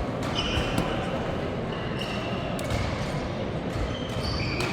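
Badminton play: a few sharp racket-on-shuttlecock hits and brief high shoe squeaks on the court floor, over a steady hall background noise.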